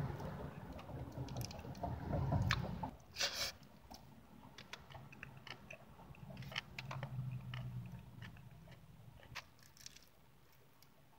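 Close-up chewing and wet mouth sounds of someone eating soft pineapple pie with whipped cream, heavier in the first few seconds, then lighter lip smacks and sticky clicks.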